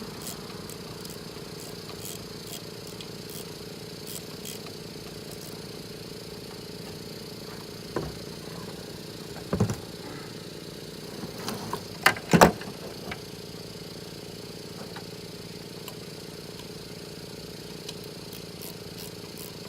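Steady mechanical hum like an idling engine, with a few sharp metallic knocks near the middle, the loudest two close together.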